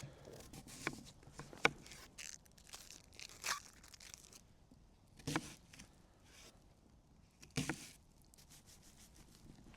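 A knife working through vegetables: a handful of irregular crunches and sharp knocks, with soft scraping and papery rustling between them.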